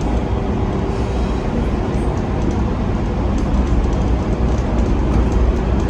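PHX Sky Train automated people mover running, heard from inside the car: a steady rumble with a faint steady tone that fades out partway through.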